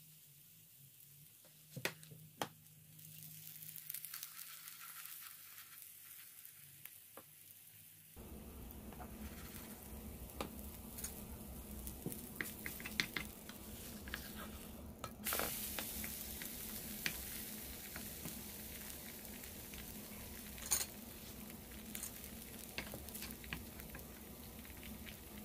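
Egg-and-burdock-coated tofu pancake frying in oil in a nonstick pan over medium-low heat, a faint sizzle with scattered crackling pops. It is quiet at first and grows louder about eight seconds in.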